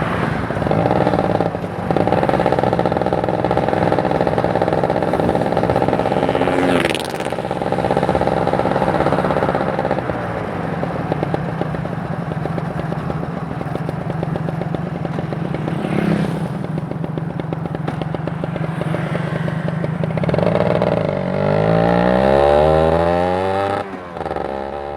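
Kawasaki Ninja 150 RR's two-stroke single-cylinder engine running under way, holding a steady note for the first ten seconds and then easing off. About 21 seconds in, the revs climb quickly for a few seconds before dropping back near the end.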